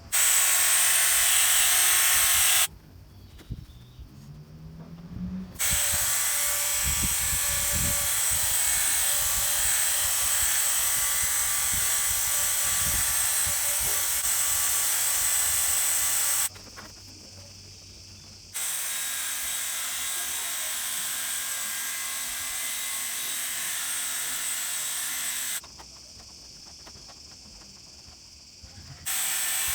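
Small electric motor of a handheld tool whirring at a steady high pitch, switched on and off several times: a short run, a pause, a run of about ten seconds, a pause, another run, and starting up again near the end.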